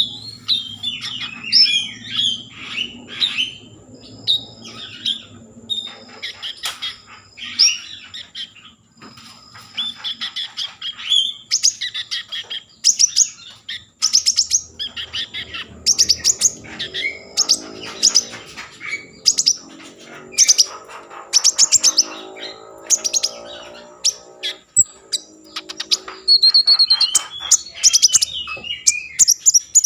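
A konin songbird singing continuously in fast, high chirps and rattling trills, used as a lure (pancingan) song to get other konin to sing. A faint low hum runs underneath.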